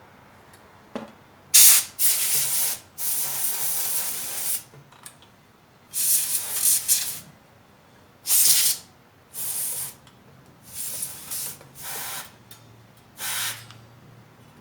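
Pressurised spray hissing in about nine short blasts of varying length, aimed at the seized fan unit of an electric heater. A small click comes about a second in, before the first blast.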